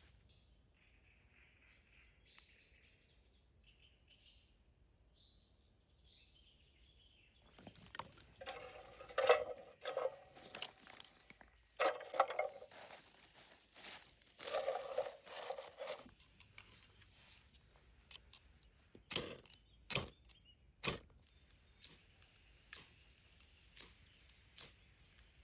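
Faint birdsong, then close handling noise: several bursts of crunching and tearing for about eight seconds, followed by a run of sharp clicks and taps.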